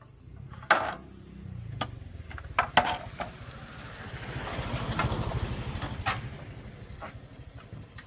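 A small engine running with a low, pulsing rumble that builds up in the middle and then eases off, with a few sharp clicks or knocks over it.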